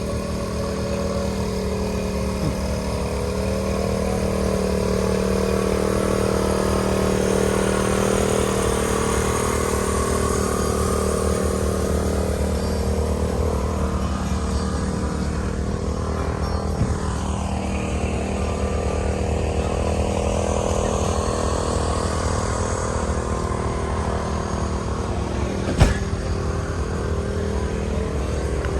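An engine running steadily at idle, with a single sharp click a few seconds before the end.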